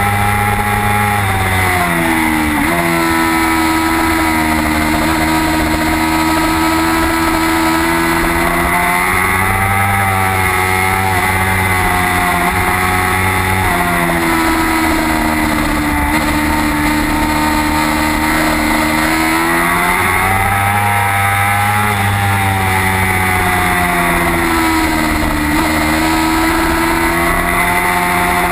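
Race motorcycle engine heard from the onboard camera at racing speed. The engine note climbs steadily as the bike accelerates, then drops in quick steps as it downshifts for corners, several times over, with a steady rush of wind and road noise underneath.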